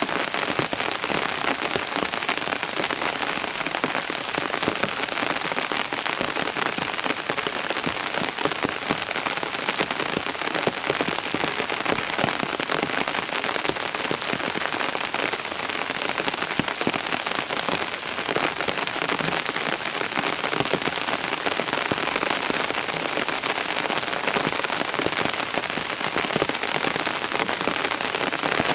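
Steady rain falling on surfaces, a dense even patter of many drops with no breaks.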